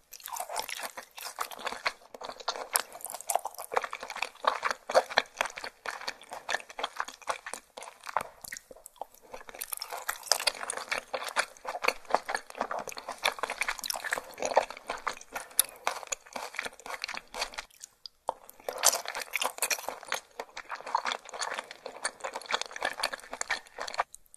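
Close-miked chewing of raw fish sashimi: dense, rapid wet clicks and smacks of the mouth. They come in three long stretches, with short pauses about 8 seconds and 18 seconds in.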